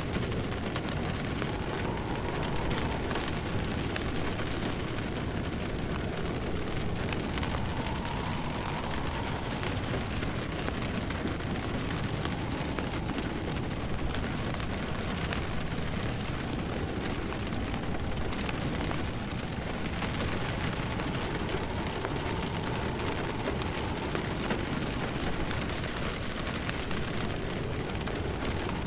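Steady rain falling, mixed with a fireplace's wood fire crackling and popping.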